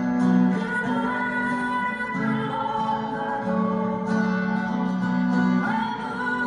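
Live music: acoustic guitars strummed and plucked by an ensemble, with voices singing long held notes.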